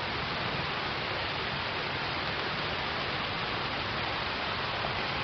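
Steady rain falling on water, an even hiss with no separate drops standing out.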